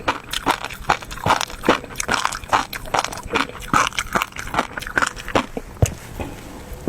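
Close-miked eating sounds of spicy noodles and fish roe: an irregular run of quick chewing smacks and clicks, a few a second, thinning out near the end.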